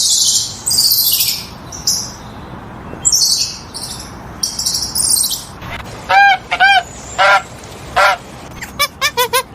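Goose honking: after several seconds of high, hissy bursts, a series of loud, arching honks starts about six seconds in and quickens into a rapid run of short honks near the end.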